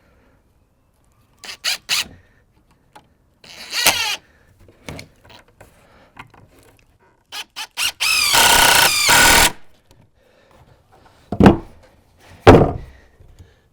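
Cordless drill driving screws into wooden framing: a few short trigger bursts, then one longer run of about a second and a half with its whine shifting in pitch. Two sharp knocks near the end.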